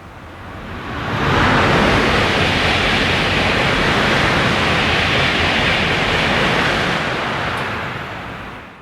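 A TGV high-speed train passing straight through the station at speed. A loud rush of air and rolling noise swells within about a second, holds steady for several seconds, then dies away near the end.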